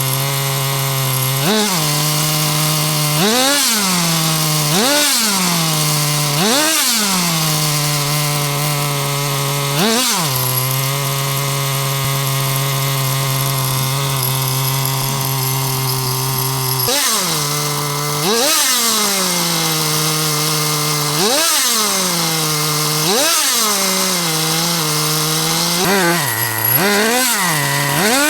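Small nitro glow engine of an HPI Super Nitro RS4 1/8-scale RC car idling steadily and being blipped, about a dozen quick revs that shoot up in pitch and fall straight back to idle, with a long unbroken idle stretch in the middle.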